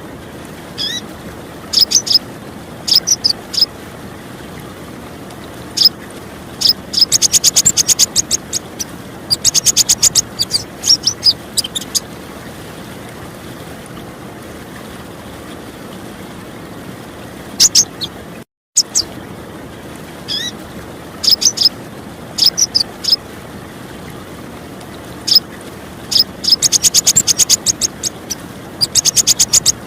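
Female kolibri ninja sunbird calling: sharp, very high chips and rapid twittering trills in short runs, with a long pause in the middle. A steady trickle of clear running water underneath.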